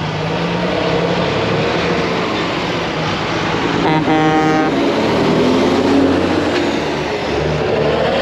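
Heavy diesel machinery running under load, its pitch wandering up and down, with a brief horn-like tone about four seconds in.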